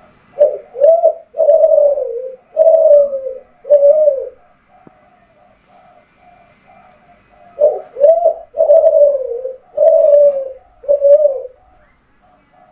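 Kelantan-strain spotted dove (derkuku) cooing: two loud song phrases of about five low notes each, the first two short and the later ones longer and falling, with a gap of a few seconds between phrases. A fainter, quicker cooing runs in the background between the phrases.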